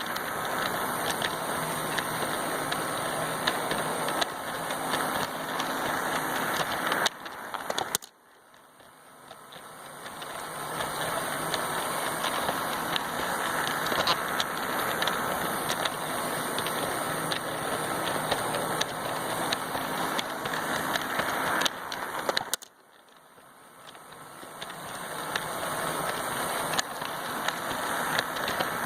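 Lego train running on plastic track: a steady motor whir and wheel rumble with scattered clicks over the track joints. The sound drops away suddenly about 8 seconds in and again about 15 seconds later, each time building back up over a few seconds as the train comes round its loop.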